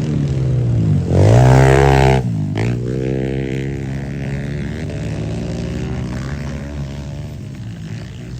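Small dirt bike engine running at a motocross track. It revs up hard about a second in, which is the loudest part, then drops back and keeps running more evenly as it fades a little.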